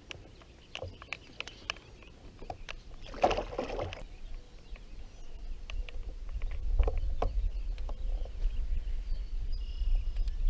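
Sounds from a fishing kayak on the water: scattered light knocks and clicks, a short rush of noise about three seconds in, then a low rumble that builds through the second half.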